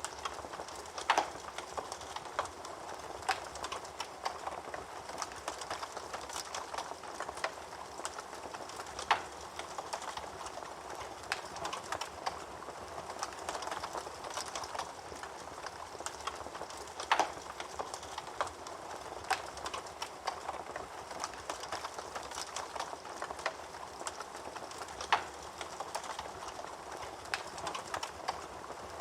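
Wood fire burning in a fireplace: a steady crackle of small snaps, with a few sharper, louder pops every few seconds, the strongest about a second in and just past halfway.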